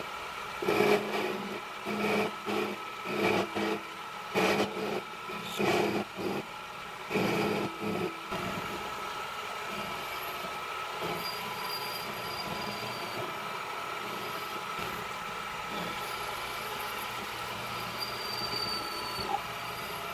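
Metal lathe running with a steady whine while turning down the diameter of a bolt to make a stud. Irregular louder cutting noise comes in the first eight seconds, then the lathe runs evenly, with a brief high squeal twice.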